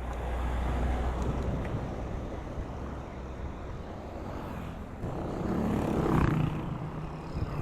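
Road noise heard while riding: a low rumble of wind and traffic, with a motor vehicle passing from about five to seven seconds in.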